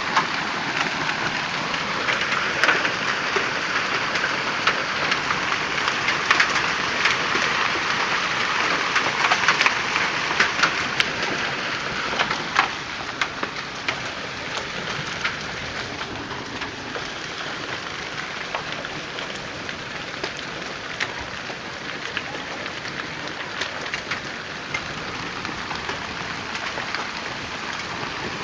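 Hailstorm: hail and heavy rain pelting down as a dense, steady patter full of sharp ticks of stones striking, easing off somewhat about halfway through.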